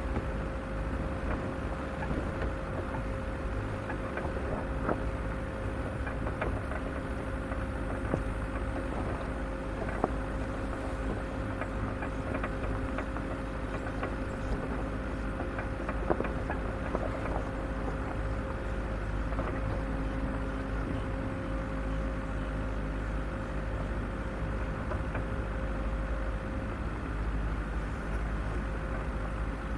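Off-road vehicle driving slowly on a rough trail: a steady engine and drivetrain rumble with a steady tone above it, and a few sharp knocks.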